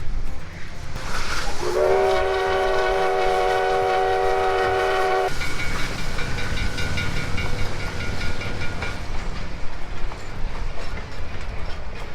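Steam locomotive's whistle giving one long, chord-like blast of about three and a half seconds, starting just under two seconds in, over the low rumble of the train.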